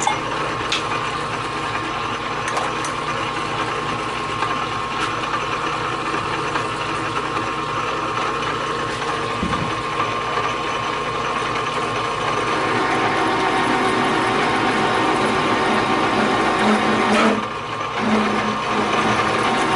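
Metal lathe running with a radius cutting bit in the cut, a steady high ringing tone over the machining noise: the bit chattering. The sound briefly drops off about 17 seconds in, then resumes.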